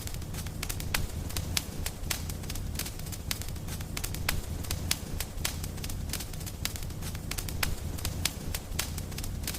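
Wood fire crackling, with sharp irregular pops and snaps several times a second over a steady low rumble of burning.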